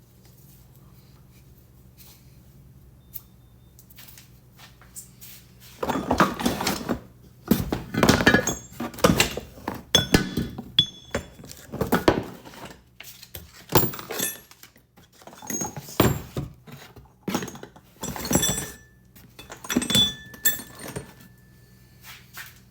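Repeated metal clanks, knocks and clinks, with some brief metallic ringing, typical of tools and steel parts being handled during lift kit work. They start about six seconds in and continue in irregular bunches until near the end, over a low steady hum.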